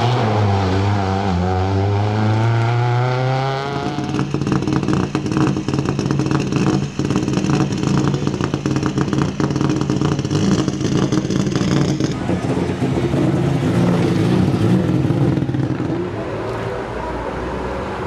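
Rally car engine revving harder and climbing in pitch as the car accelerates away out of a gravel corner. About four seconds in, the sound changes to engines idling steadily, with rapid clattering clicks over them until about two-thirds of the way through.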